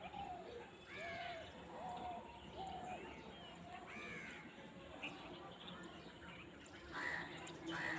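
Birds calling outdoors: a run of short arched calls one after another, with louder, harsher calls starting near the end.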